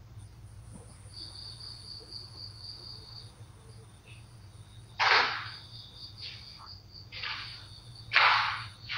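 Crickets trilling steadily in a high, thin tone, with a few short rushing sounds breaking in, the loudest about five and eight seconds in.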